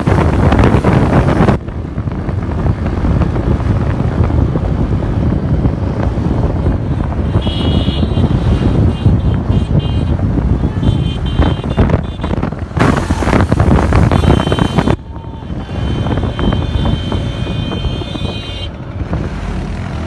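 Road traffic heard from a moving bike: a steady, loud rumble of engines and tyres, with wind buffeting the microphone at the start and again about two-thirds of the way through. High pitched vehicle horns sound on and off through the second half.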